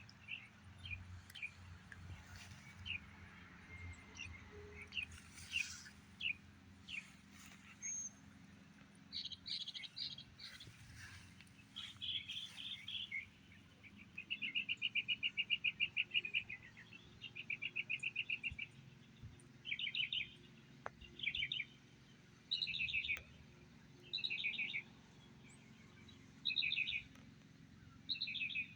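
Songbirds singing: scattered short chirps, then about halfway through a long rapid trill, followed by short repeated phrases every second or so.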